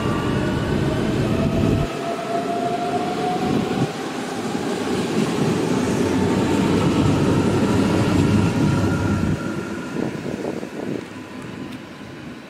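A train running past: heavy rumbling rolling noise with a whine that rises in pitch over the first few seconds, fading away over the last few seconds.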